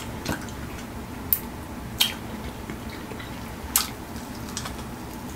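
Close-miked eating sounds: chewing a Flamin' Hot Cheetos-crusted chicken wing, with several sharp, brief crunching and smacking clicks about a second apart.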